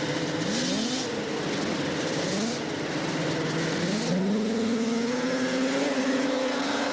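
Stock 800-class two-stroke racing snowmobiles revving in short rising blips, then about four seconds in a long climbing engine note that settles steady as a sled accelerates away.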